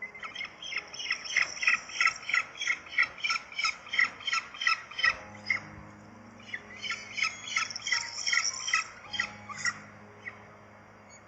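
Birds at a nest squawking in rapid series of sharp calls, about four a second. The calls stop about halfway through and start again a second or so later.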